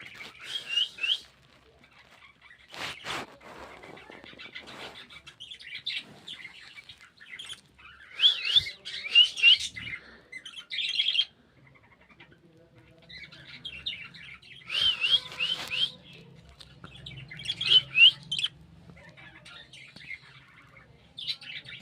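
Budgerigars chirping and warbling in repeated bursts of quick, rising and falling chirps, with short pauses between bursts.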